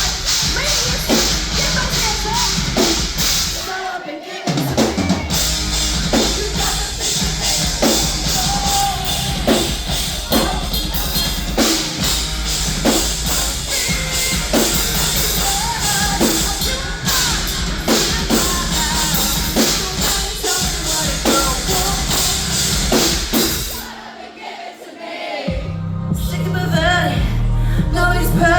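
Rock band playing live with a steady drum-kit beat under guitars and some vocal lines. The band drops out briefly about 4 seconds in, then again near the end before the drums and heavy bass crash back in.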